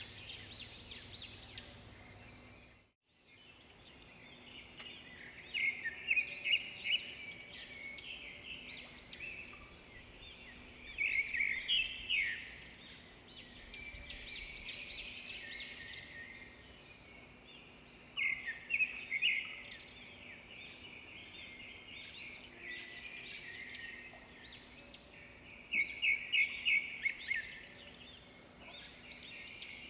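Songbirds chirping and singing, with a louder burst of quick repeated high notes every several seconds over a steady background hush. The sound cuts out briefly about three seconds in.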